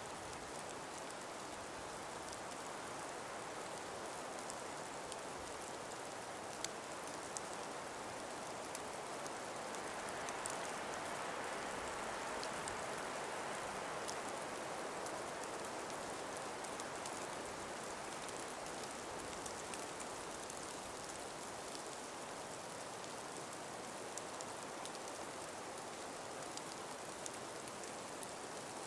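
Calm breeze moving through a forest of ice- and snow-laden trees: a soft, steady hiss that swells for a few seconds near the middle, with scattered faint ticks.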